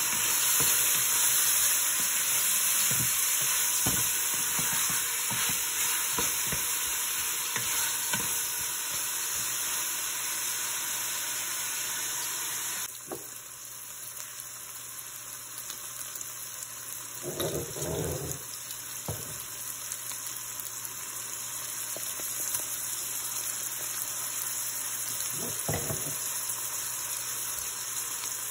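Diced pork and chopped onion sizzling in a stainless steel pot, with a wooden spoon scraping and stirring through them in the first half. About halfway through the sizzling drops suddenly to a softer level, and two short knocks follow later.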